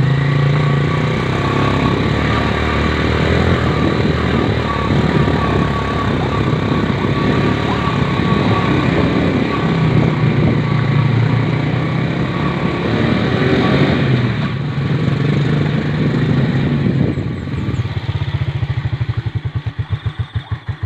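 Motorcycle engine running steadily. Near the end it slows into separate firing beats that fade out as it shuts off.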